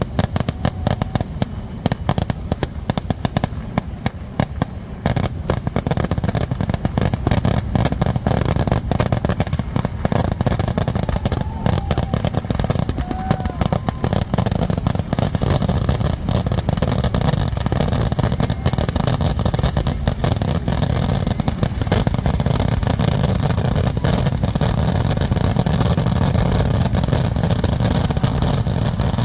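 Temple fireworks barrage: a dense, unbroken run of rapid bangs and crackling, loud and steady throughout.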